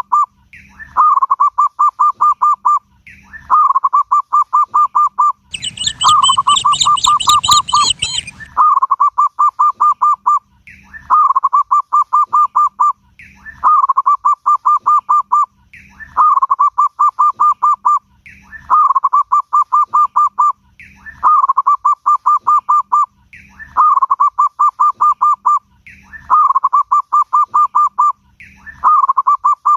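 Zebra dove (perkutut) singing: the same phrase repeated about every two and a half seconds, a short high note followed by a fast run of coos. About six seconds in, a higher, harsher call with a rasp overlaps for about three seconds.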